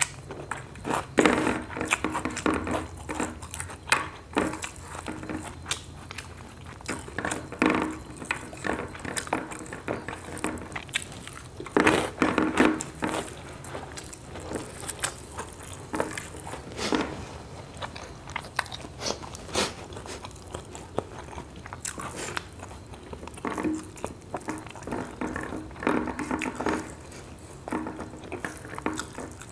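Close-up sounds of a person eating rice with fried eggplant and omelette by hand: wet chewing, lip smacks and small crunches go on throughout. Now and then there is a short hum with the mouth full.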